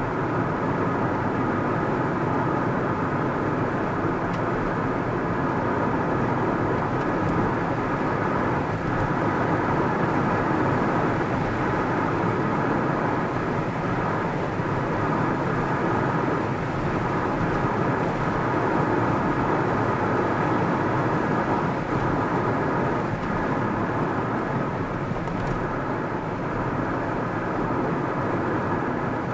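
A car driving along at a steady pace: constant tyre and engine noise that hardly changes in level.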